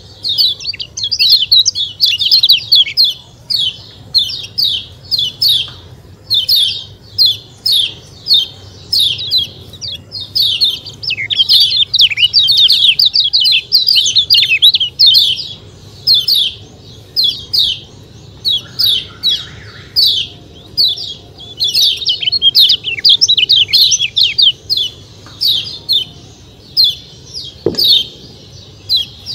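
Kecial kuning, a small yellow white-eye, chattering its 'ciak ciak' call: rapid runs of high, quickly falling chirps, one run after another with short breaks.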